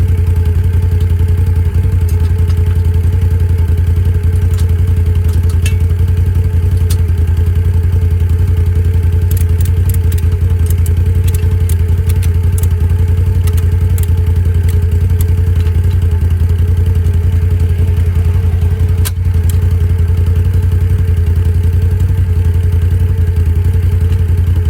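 ATV engine running steadily at an even speed without revving, with scattered light clicks and rattles over it.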